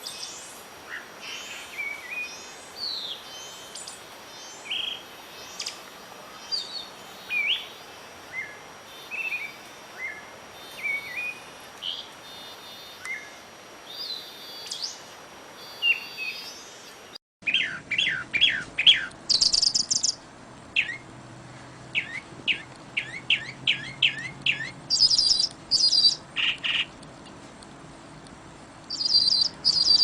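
Many songbirds calling and singing, with short whistled and sweeping notes over a faint steady background hiss. About 17 seconds in the sound cuts out briefly and switches to a different recording of birds giving rapid series of short downward-sweeping notes and high trills.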